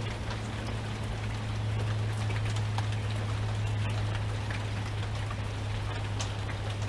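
Steady rain falling, with many scattered drops ticking on a surface, over a constant low hum.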